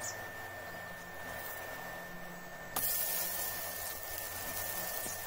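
Thin pancake batter frying in a hot pan, a steady sizzling hiss that gets louder and brighter about three seconds in.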